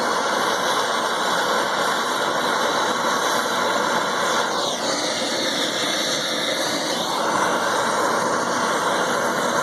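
Brazing torch flame hissing steadily while copper AC gas pipe is being brazed, with a faint whine that dips and then rises about halfway through.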